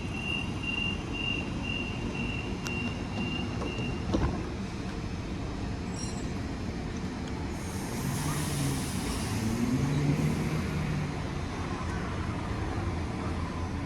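Rail vehicle at a station platform: a run of short, evenly spaced high beeps, about two and a half a second, for the first four seconds, a sharp knock just after, then a hiss of air with a low mechanical hum from about seven and a half to eleven seconds in, over a steady rumble.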